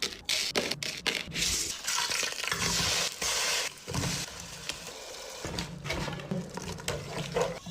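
Biryani ingredients frying in a pot, a steady sizzling hiss, with a spoon stirring and knocking against the pot in sharp clicks.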